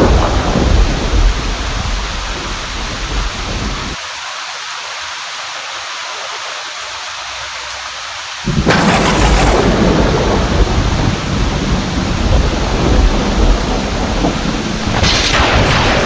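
Steady heavy rain with rolling thunder. The rumble dies away, leaving a few seconds of rain alone. At about the middle a sudden loud thunderclap breaks in and rumbles on, and another crack comes near the end.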